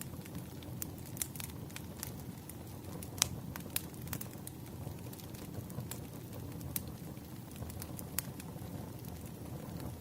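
Wood fire in a fireplace crackling, with irregular sharp pops over a low, steady rush of burning; the loudest pop comes about three seconds in.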